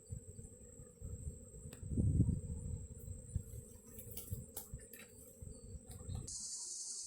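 Uneven low rumbling, like wind buffeting a microphone, under a faint steady high insect trill. About six seconds in the rumble stops abruptly and a steady, loud, high-pitched insect buzz takes over, such as a cricket or cicada.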